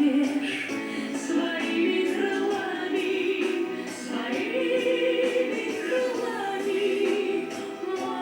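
A group of voices singing a song together in sustained, held notes.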